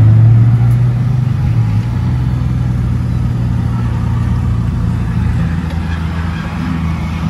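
A car engine idling close by, a steady low hum that eases slightly in level and pitch after the first couple of seconds.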